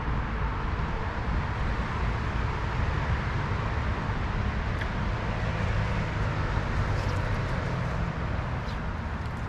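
Steady rush of stream water flowing over riffles, with a few faint ticks.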